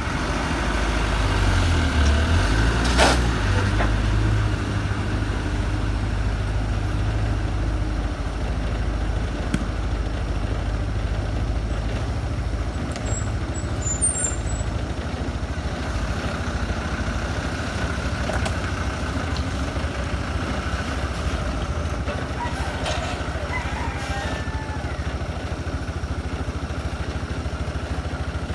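Truck engine running with a deep rumble while climbing a steep hill, louder in the first few seconds, with a sharp knock about three seconds in.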